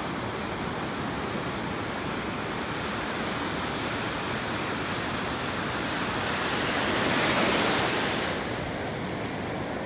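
Ocean surf at the shoreline: a steady wash of waves, with one wave breaking and rushing up the sand louder about seven seconds in before fading back.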